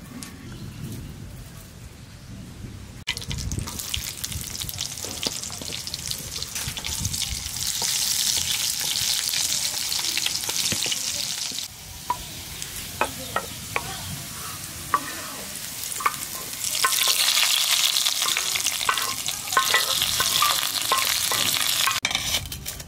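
Beef curry with ground spice paste frying and sizzling in a pot as it is stirred. The sizzle comes in two louder stretches, with a few sharp knocks of the stirring spoon against the pot between them.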